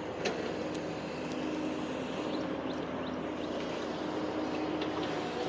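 Steady road traffic noise: cars running past on a highway, an even rush with a faint low engine hum.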